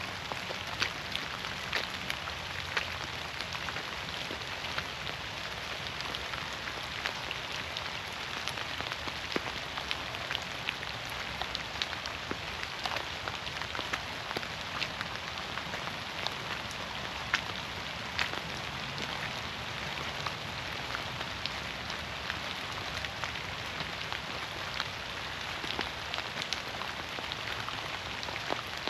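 Rain falling in a forest: a steady hiss with many separate drops striking close by.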